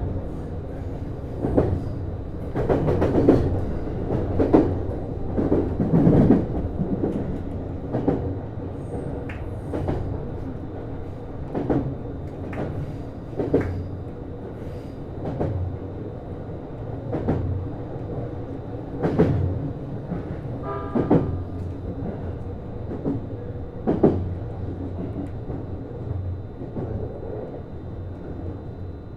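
Inside a JR East Series HB-E210 hybrid diesel-electric railcar under way: a steady low hum with wheels clacking over rail joints. The clacks come further apart through the clip, and the sound fades toward the end as the train slows.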